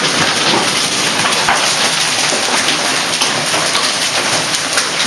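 Heavy thunderstorm downpour: a loud, steady hiss of rain with many small sharp hits of drops striking a surface.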